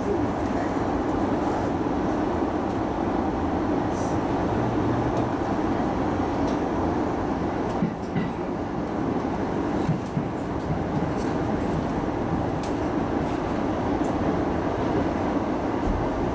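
Electric commuter train running between stations, heard from the cab: a steady rumble of wheels on rail with occasional faint clicks and a couple of brief knocks about halfway through.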